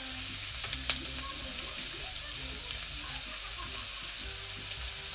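Boiled beef cubes and chopped onion sizzling in oil in a frying pan: a steady frying hiss, with one sharp click about a second in.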